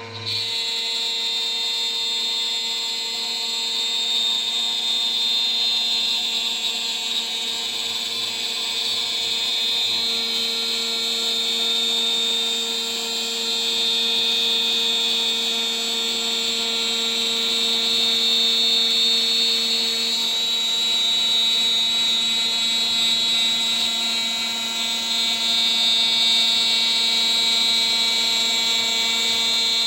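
CNC router spindle running steadily at about 14,000 rpm while a 3 mm three-flute aluminium end mill cuts, a constant high whine with slow swells in loudness.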